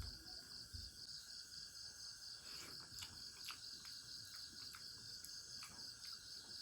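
Insects chirping in a steady, rapid pulsing trill, with a few faint clicks.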